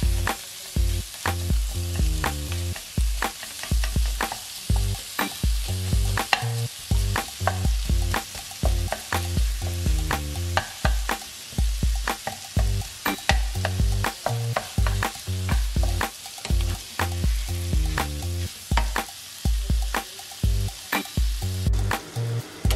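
Bacon, onions and garlic sizzling in a frying pan while a wooden spatula stirs and scrapes through them, with a steady rhythm of low knocks about twice a second.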